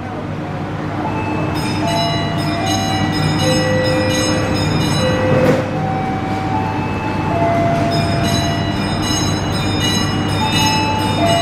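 Steady low drone of the passenger train standing at the platform with its engine running. A tune of short pitched notes plays over it, and there is one brief knock about halfway through.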